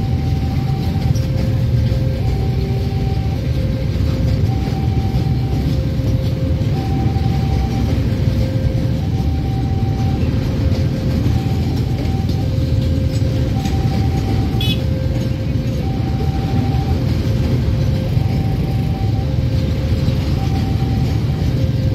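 A long Babaranjang coal train of freight wagons rolling past, its wheels on the rails making a steady heavy rumble. Over it, a level-crossing warning bell sounds two alternating tones, a high one and a low one, about one tone a second. There is a single sharp click about two-thirds of the way through.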